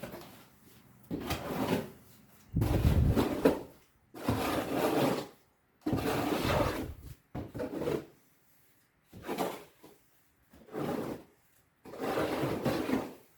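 A spade scraping through wet cement mortar in repeated rough strokes, about eight of them, each under a couple of seconds with short pauses between. The heaviest stroke comes about three seconds in.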